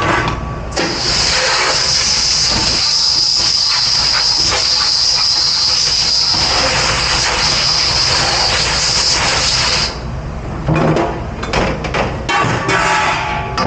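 Commercial dish-pit pre-rinse sprayer blasting water with a steady hiss, which starts about a second in and cuts off after about nine seconds. Dishes clatter and knock after it stops.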